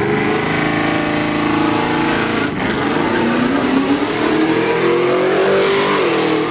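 Modified pickup truck's engine revving at high rpm, its pitch wavering and then falling near the end, over a wide hiss.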